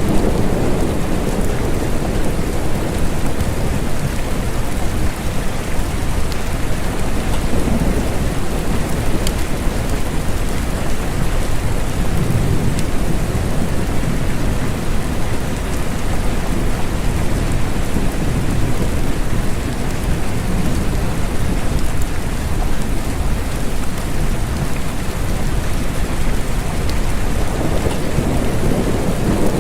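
Steady rain falling on surfaces, with low rumbles swelling up every few seconds like distant thunder.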